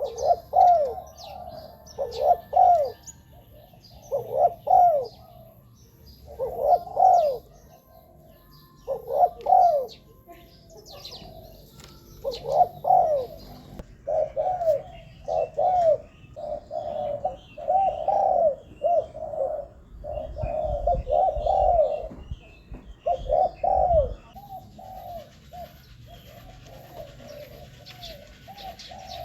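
Spotted dove cooing over and over, one phrase every second or two, with faint chirps of small birds behind it.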